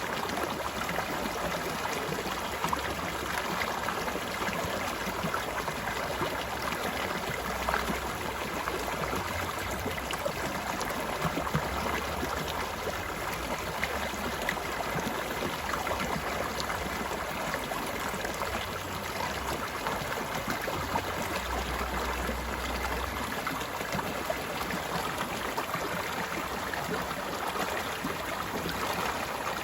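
A stream of flowing water, with a steady babbling rush.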